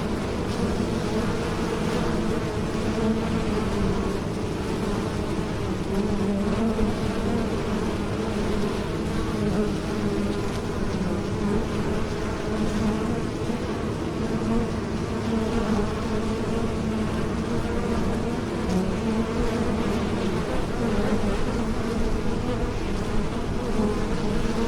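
Bees buzzing in flight: a steady, continuous drone whose pitch wavers slightly.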